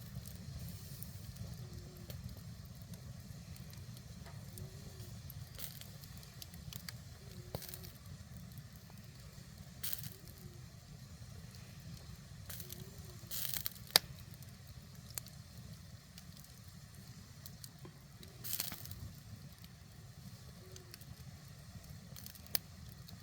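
Firewood fire burning under a cast-iron cauldron, crackling, with about half a dozen sharp pops scattered over a steady low rumble.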